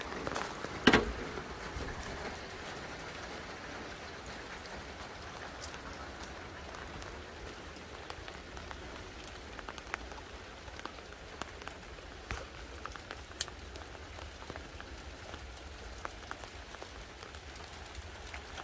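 Heavy rain falling steadily, with scattered drops ticking on a surface. A single sharp knock about a second in.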